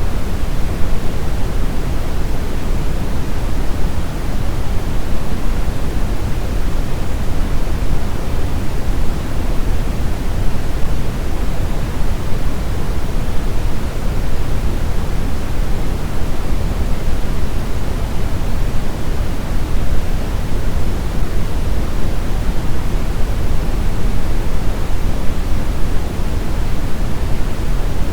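Steady brown noise: a smooth, even hiss weighted heavily toward the low rumble, with no changes or events.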